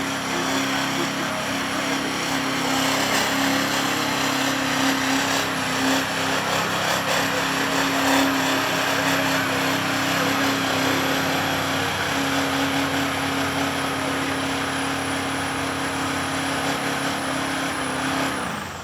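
Mega mud truck's engine held at high revs through a mud-bog run, a steady loud drone over a wash of noise, with the pitch falling away near the end as the throttle comes off.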